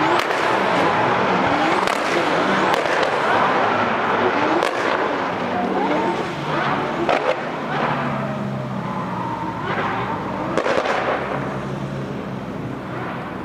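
High-performance car engines revving up and down and passing, with sharp exhaust cracks and pops, fading somewhat towards the end.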